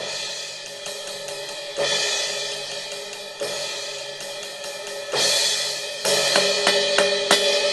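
Sampled cymbal sounds from a 2Box electronic drum module, triggered by hits on trigger-converted cymbals: several strikes, each leaving a ringing wash with a steady bell-like tone. The biggest hit comes about five seconds in, followed by a quick run of strikes near the end.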